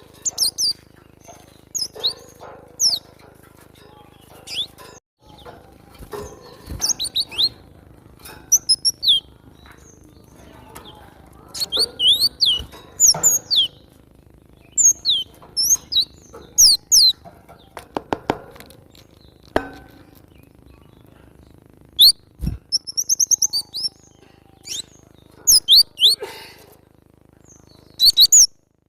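Cinereous tit (glatik batu) calling: repeated bursts of short, sharp, high chirps with brief pauses between them, and a quick high trill about 22 seconds in.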